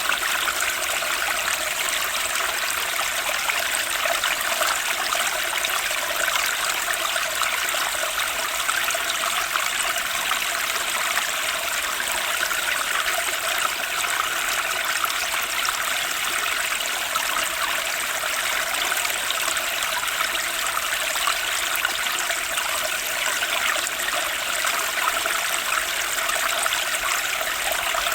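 Turbulent stream rushing and splashing in an even, unbroken flow.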